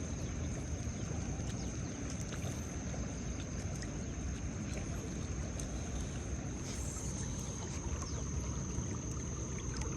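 Steady outdoor riverside ambience: a constant low rumble with a thin high-pitched whine held throughout and a few faint scattered clicks.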